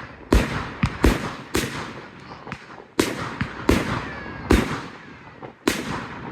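Display fireworks bursting: about eight loud bangs at uneven intervals, each trailing off in an echoing tail, with smaller cracks in between.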